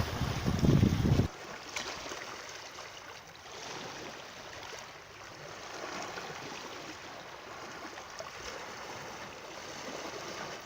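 Steady rush of flowing water. A louder, low rumble comes in the first second and stops suddenly.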